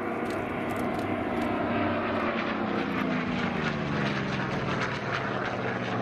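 Radial piston engines of a Goodyear FG-1D Corsair and a Grumman Bearcat, Pratt & Whitney R-2800 Double Wasps, running as the fighters fly past. The engine note falls in pitch a couple of seconds in as they go by.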